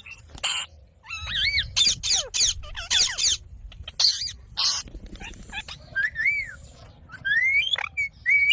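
Indian ringneck parakeet calling: a run of short harsh screeches mixed with whistled chirps that rise and fall in pitch, with short pauses between calls.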